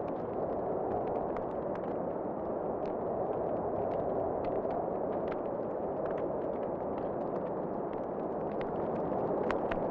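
Fireplace fire crackling, with frequent small irregular pops over a steady whoosh of wind.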